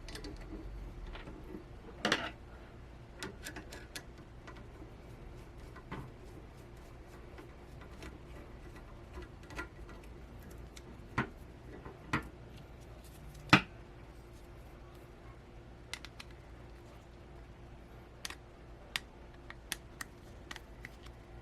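Plastic and metal parts of a VESA adapter mount being handled and fitted together: scattered clicks and knocks, the sharpest about two-thirds of the way through, with lighter ticks near the end.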